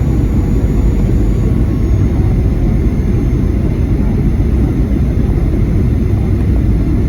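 Steady low rumble of a Boeing 737-800, heard from inside the passenger cabin, with a few faint steady tones above it.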